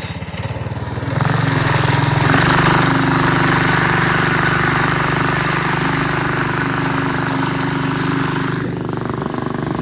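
Predator 212 single-cylinder engine on a mini bike revving up about a second in and running at steady high throttle under load while towing a go-kart, easing off near the end.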